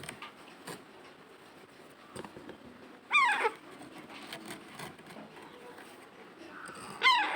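A pet parrot calling twice, each a short loud cry that falls in pitch: one about three seconds in and one near the end.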